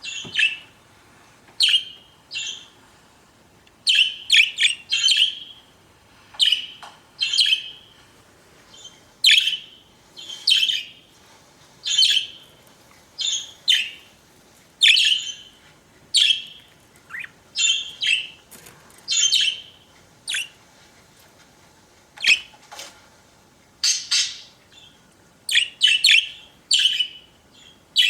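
Pet budgerigars chirping and calling in short bursts, a few notes at a time with brief pauses between.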